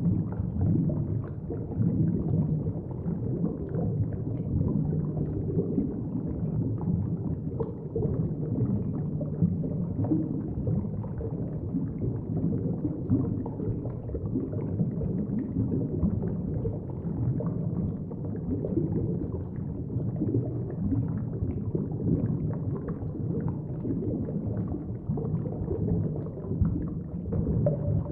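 Thick underwater bubbling: a continuous dense low burble of bubbles heard as if underwater, with many small pops and no pauses.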